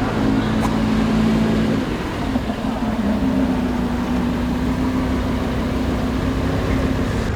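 Lamborghini engine running at low, fairly steady revs, its note dipping about two seconds in and settling slightly higher a second later.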